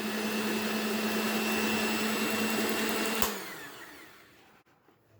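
Electric hand mixer beating eggs with a steady whine, switched off with a click a little past three seconds in, its motor then winding down.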